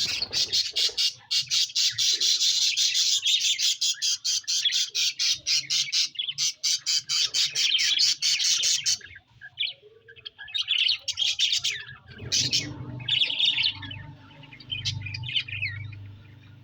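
Budgerigar chirping: a fast, unbroken run of high cheeps for about nine seconds, then sparser separate calls. A low hum joins underneath about twelve seconds in.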